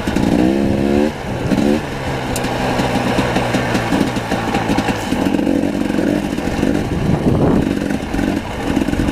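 Dirt bike engine under way on a rough trail, revs rising and falling with the throttle: a climb in the first second, a short one just before two seconds, a steadier stretch, then a longer climb between about five and seven and a half seconds.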